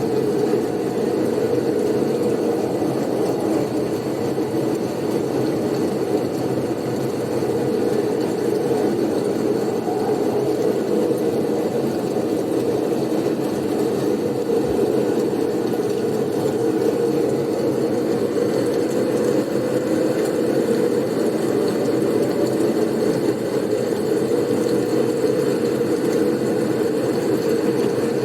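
Steady, low blizzard wind noise: a dense rumble that swells only slightly and has no gusts or breaks.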